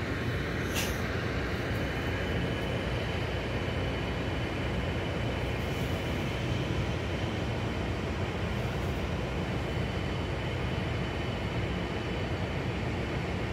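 MARC commuter train running on the line, a steady low rumble with a thin, steady high whine over it and a brief click about a second in.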